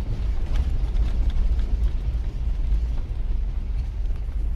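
Steady low rumble of a car driving slowly over a rough dirt road, heard from inside the vehicle, with a few faint knocks.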